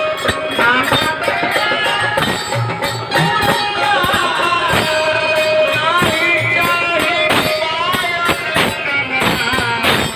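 Purvi folk music: a wavering melody over steady jingling percussion and drum strokes.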